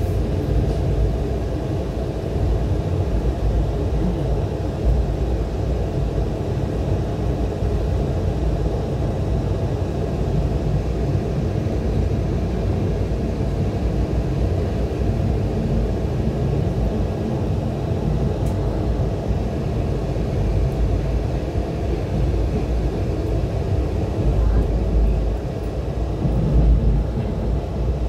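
Steady low rumble of a moving train heard from inside its coach: wheels on the rails and the carriage's running noise.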